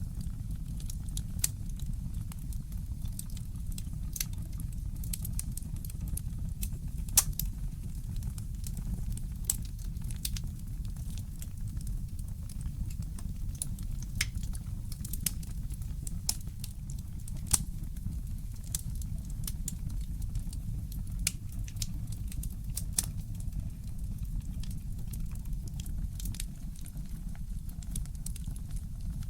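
Wood fire in a fireplace crackling, with irregular sharp pops, two of them louder, over a steady low rumble.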